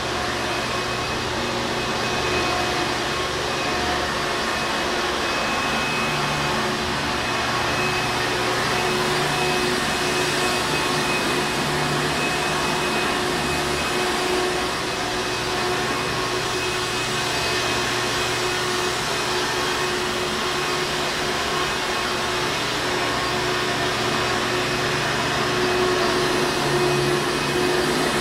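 Hoover Encore Supreme upright vacuum cleaner running steadily, a continuous motor whine and airflow rush with no change in speed.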